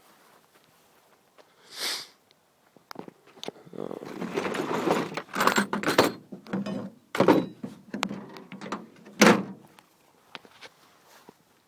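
Rustling and clattering with a run of sharp knocks and thunks, the loudest about nine seconds in.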